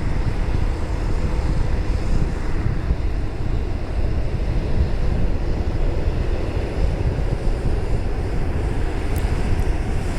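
Wind buffeting the microphone: a steady, loud, low rumbling noise that flutters in level, with no distinct events.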